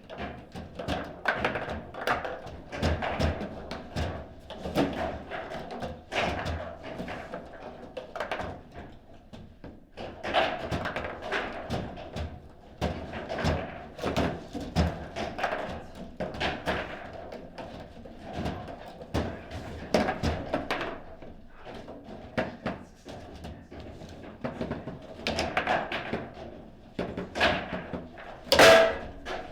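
Table football (foosball) in play: the ball is struck and blocked by the rod figures, with rods clacking and sliding in an irregular run of sharp knocks and thunks. The loudest bang comes near the end.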